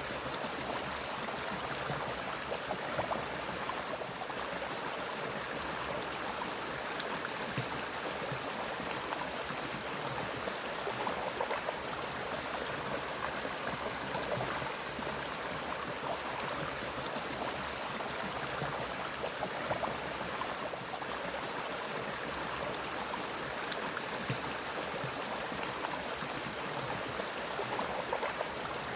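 Mountain stream flowing in an even rush of water, with a constant high-pitched tone above it.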